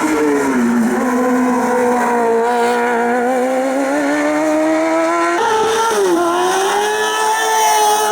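Racing car engine under hard load: its pitch drops sharply at the start, then climbs slowly through a long pull. About five seconds in the pitch jumps and falls again with a gear change, then holds fairly steady.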